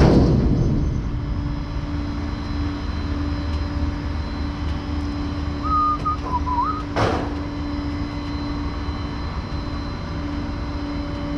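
Flatbed tow truck's engine running steadily with a constant hum as a vehicle is unloaded off the bed. A loud rushing clunk comes at the start, a brief wavering whistle about six seconds in, and a sharp knock about seven seconds in.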